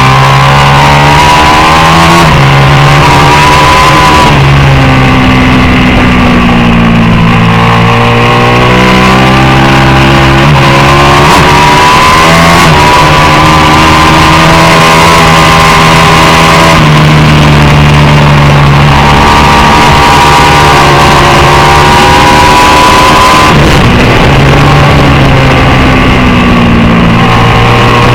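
Racing motorcycle engine running hard and loud. Its pitch climbs steadily over several seconds as it pulls through a gear, then drops sharply at the shifts and corners, several times over.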